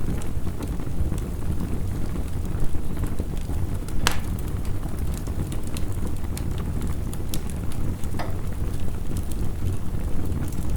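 Wood fire crackling with scattered sharp pops, one louder pop about four seconds in, over a steady low rush of heavy rain.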